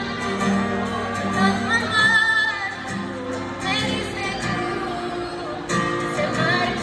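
A woman singing a song, with acoustic guitar accompaniment.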